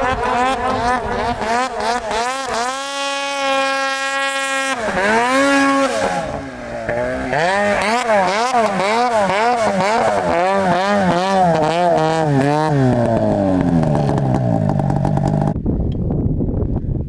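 Two-stroke engine of a 2021 Arctic Cat 154" Hardcore snowmobile fitted with an aftermarket L2 exhaust can, revved hard with the throttle worked on and off. The pitch holds high for a couple of seconds, then jumps up and down about twice a second, and winds down near the end.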